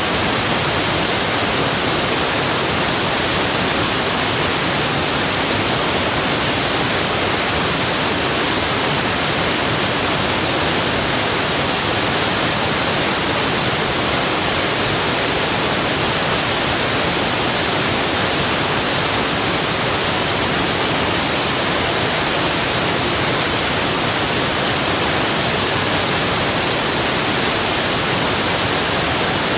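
Waterfall rushing: a loud, steady, even hiss of falling water with no breaks.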